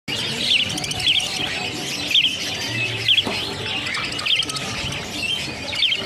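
Caged birds chirping: short, sharp high chirps repeating about once a second over a steady background hubbub.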